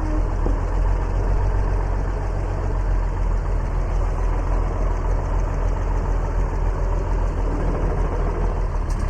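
A Farmall tricycle-front tractor's engine running steadily at low speed as the tractor is driven up two ramps onto a trailer.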